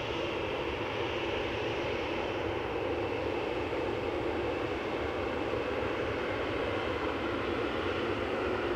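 Steady rumble of a jet airliner's engines, with a faint high whine that fades over the first few seconds.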